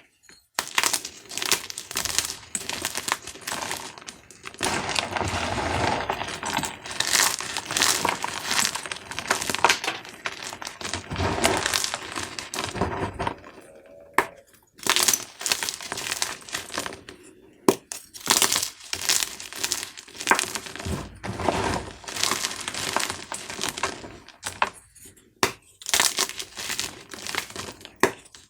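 Dyed gym chalk cubes being crushed, crackling and crunching in runs of sharp crunches, with a short pause about halfway through and a few brief breaks later.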